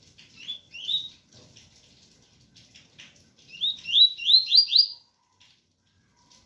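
Double-collared seedeater (coleiro) singing. Two rising whistled notes come about a second in, then a quick run of five rising notes near the middle, each a little higher than the last. A light patter of rain runs underneath.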